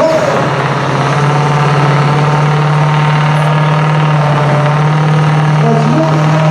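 Modified diesel pickup's engine running loud at steady high revs under the load of a sled pull, a sustained drone that barely changes pitch.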